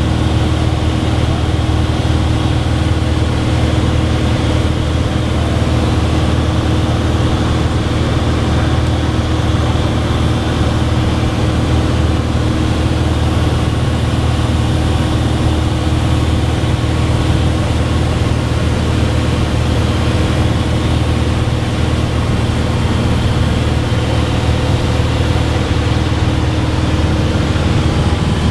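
Cessna 182's piston engine and propeller droning at a steady pitch, with no change in power.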